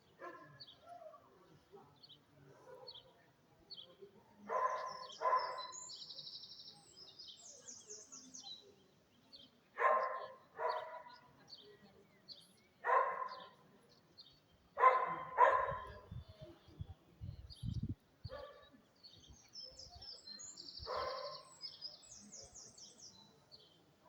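A dog barking, mostly in pairs of short barks, several times. Between the barks a songbird sings rapid high trills twice.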